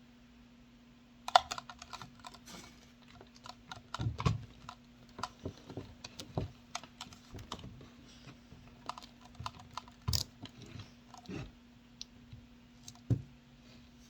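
Irregular clicks and taps, like small hard objects being handled, over a faint steady hum.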